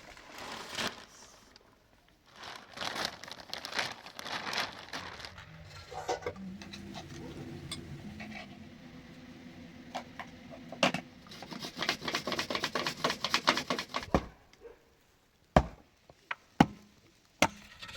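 Irregular crinkling and rustling with many small clicks, busiest a little past the middle, followed by three sharp knocks near the end.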